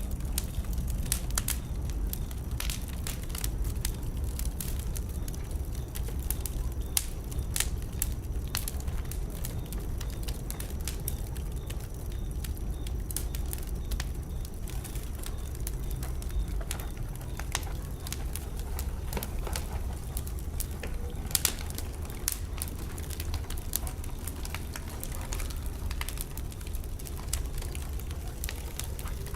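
Wood fire burning in a fireplace, with a steady low rumble of the flames and frequent irregular crackles and sharper pops.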